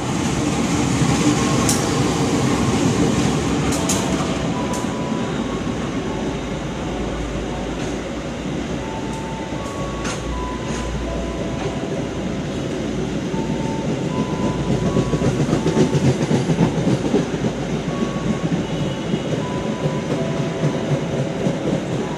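Freight train passing close by: a GE U18C (CC 201) diesel-electric locomotive goes past with its engine running, loudest in the first few seconds, followed by a long string of freight wagons rolling past on the rails.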